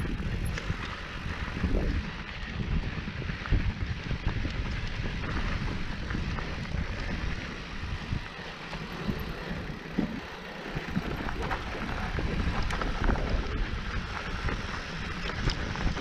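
Mountain bike ridden over a rough, sandy trail: wind buffeting the on-board microphone, with tyre noise and scattered clicks and rattles from the bike.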